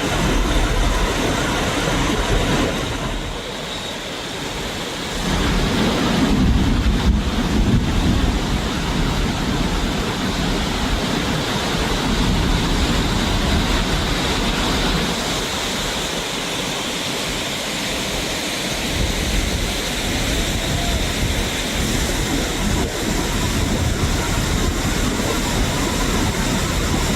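Steady rush of fast-flowing water with a low rumble underneath.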